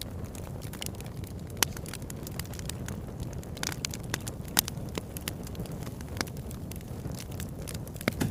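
Wood fire burning in a fireplace: a steady low rumble of flames with frequent sharp pops and crackles, the loudest about a second and a half in, about four and a half seconds in, and near the end.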